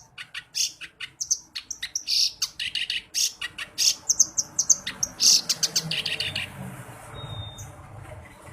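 Kerak basi (reed warbler) singing a fast, loud run of short, harsh chattering notes that stops about six and a half seconds in, leaving a faint low rumble.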